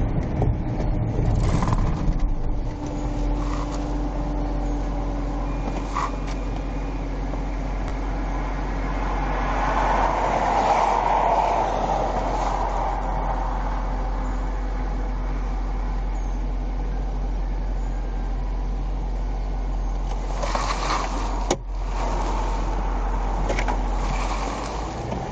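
Police patrol car driving: a steady engine and road hum that swells for a couple of seconds near the middle, with one sharp click late on.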